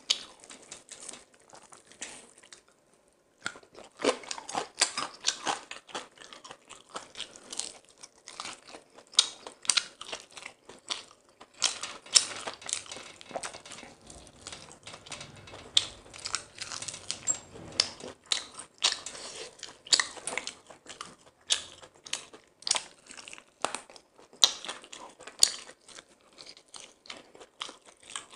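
Close-miked chewing, biting and crunching of crispy deep-fried whole chicken eaten by hand, a steady run of sharp crackly mouth sounds with a short lull about three seconds in.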